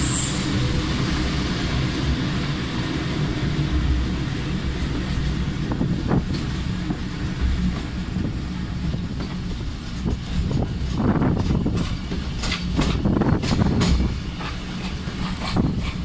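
Train running along the track, heard from an open carriage window: a steady low rumble, with scattered sharp clicks and knocks in the second half.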